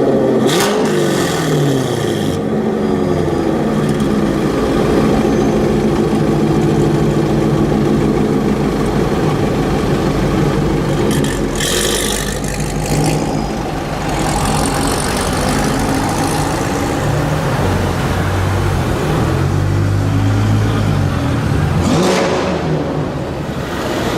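Loud Corvette V8 engine running and revving, its pitch rising and falling again and again. There is a brief hiss about halfway through and a short sharp burst near the end.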